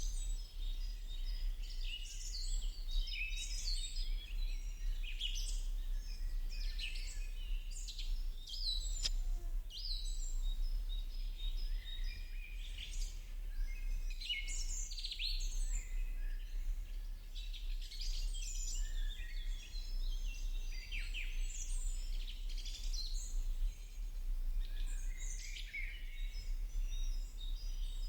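Many birds chirping and singing in a dense, overlapping chorus of short high calls and trills, over a steady low hum.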